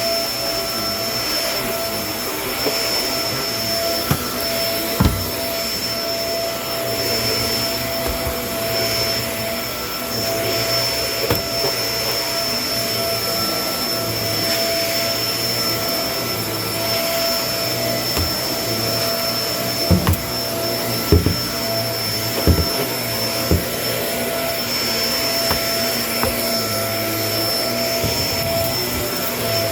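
Kenmore vacuum cleaner running steadily with a constant motor whine and airflow rush, broken by a few sharp clicks and knocks, mostly clustered about two-thirds of the way through.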